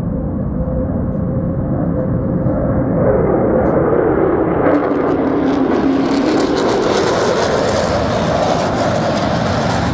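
Aircraft flying low past the crowd with a loud, steady rumble. Its engine tone drops in pitch as it passes, then a harsh crackling roar builds from about halfway through.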